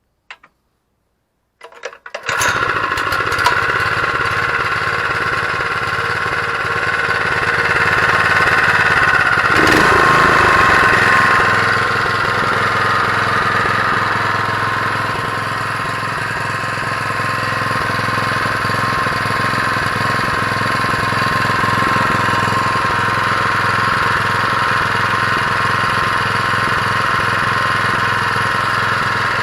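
Honda GX120 single-cylinder four-stroke petrol engine starting about two seconds in, after a few clicks, then running steadily. Its level rises a little around ten seconds in and settles again.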